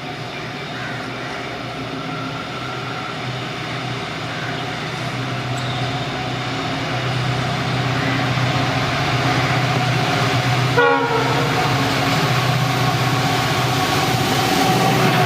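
Twin EMD GT46PAC (WDP-4) diesel locomotives, each with a two-stroke 16-cylinder 710 engine, running hard under load as they accelerate, their drone growing steadily louder. A short horn blast sounds about eleven seconds in.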